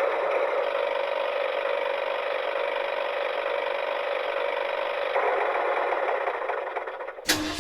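Small toy-vehicle motor running steadily with a gear rattle, its pitch fairly even. It cuts off suddenly near the end.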